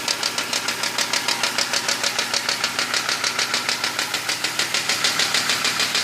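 BMW M54B25 2.5-litre inline-six idling warm with a steady, evenly spaced knock, about six a second. The knock survived a new cylinder head, new hydraulic lifters, rings, bearings and gaskets; the crankshaft and connecting rods check out, and the mechanics suspect a cylinder liner.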